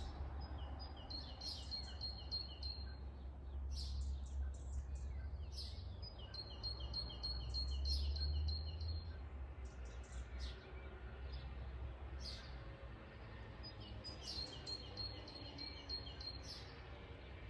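Small songbird singing three phrases of quick, evenly repeated high chirps, each about two seconds long, over a low rumble that fades out partway through.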